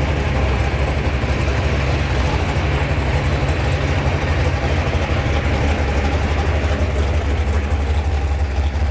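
Classic Mopar muscle car's V8 engine idling with a deep, steady exhaust rumble.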